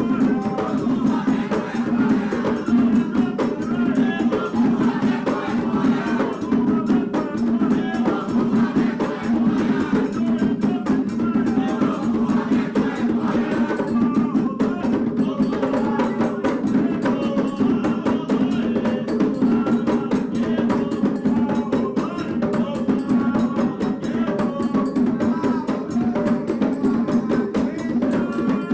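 Candomblé atabaque drumming, the rum lead drum playing a toque for Oxum in a fast, steady rhythm, with voices singing over it.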